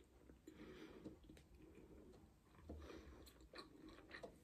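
Faint chewing of food with the mouth closed, with a few soft mouth clicks now and then.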